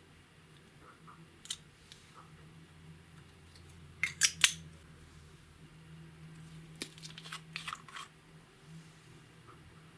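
Clear slime being worked by hand: sparse sharp clicks and pops, loudest in a quick cluster about four seconds in and again in a run near the end, over a faint steady low hum.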